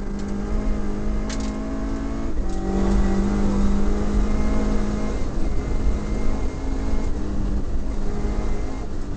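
Toyota Corolla Levin's 4A-GE twin-cam four-cylinder engine heard from inside the cabin, pulling hard at fairly steady revs, with a short dip in the engine note about two seconds in. Tyre and road noise from the gravel stage runs underneath.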